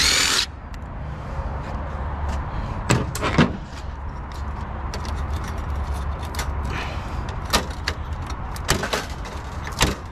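Scattered sharp clicks and clanks of tools and metal printer parts being handled during teardown, over a steady low rumble. A short loud burst comes right at the start.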